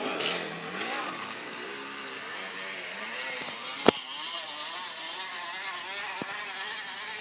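Crushed plastic bottle slotted against a bicycle's turning back wheel, buzzing like a small motorbike engine as the bike is ridden. Its pitch wavers up and down, with one sharp click about four seconds in.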